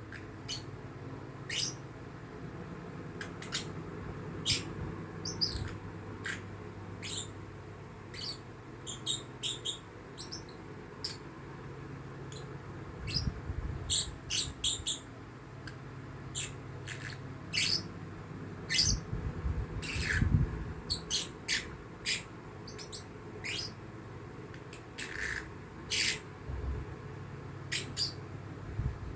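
Young lovebird chick calling: many short, high-pitched chirps and squeaks at an uneven pace, some coming in quick runs of two or three.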